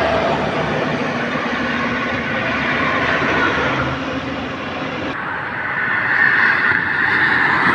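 Highway traffic: trucks and cars driving past in a steady rush of engine and tyre noise. The sound changes abruptly about five seconds in.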